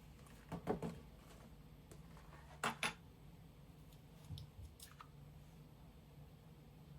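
A few light clicks and knocks of small household objects being handled, the loudest a quick pair of sharp clicks a little under three seconds in, over a faint steady hum.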